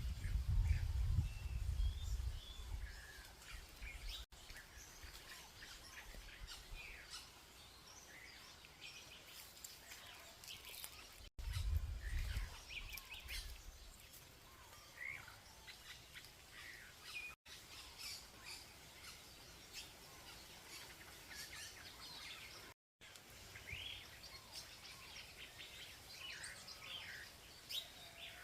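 Many birds chirping and singing together, short calls and trills overlapping throughout. A low rumble comes in at the start and again about eleven seconds in.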